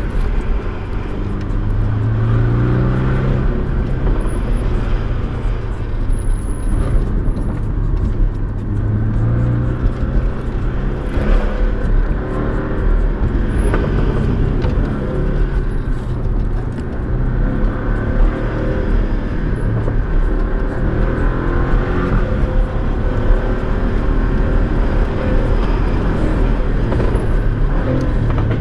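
Porsche 718's engine heard from inside the cabin, its note rising and falling several times as the car accelerates and changes gear, over steady tyre and road noise.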